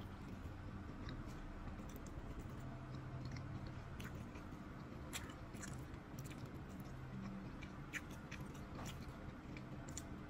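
A person chewing a bite of cheese pizza, with scattered small clicks from the mouth over a low steady hum.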